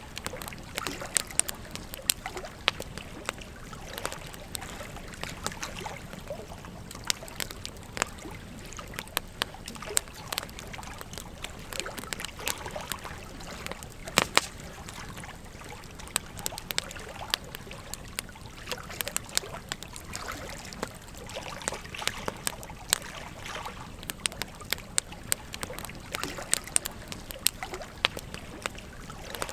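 Wood campfire crackling and popping irregularly, with one sharp pop about halfway through, over the steady trickle of a gentle stream.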